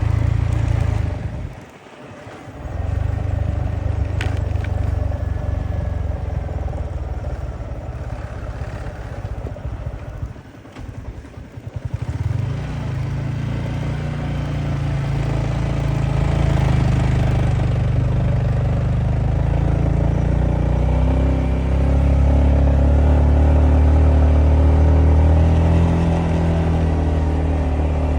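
Yamaha MT-15 motorcycle's single-cylinder engine running under way. It drops away briefly about two seconds in and again around eleven seconds in, then runs steadier and louder through the second half.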